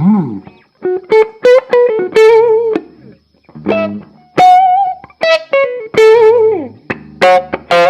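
Electric guitar through a small tube-preamp-stage Class D power amp (EF95 mini pentode) and speaker cabinet, playing a single-note lead line in short phrases. Held notes carry a wavering vibrato, some notes slide down in pitch, and brief gaps fall between phrases.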